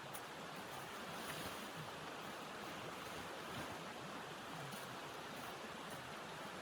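Steady rushing wind of a snowstorm blizzard, an even, unbroken noise.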